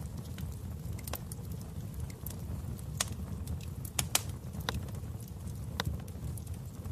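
Wood fire burning in a fireplace: irregular sharp crackles and pops over a steady low rumble of the flames, the loudest pops about three and four seconds in.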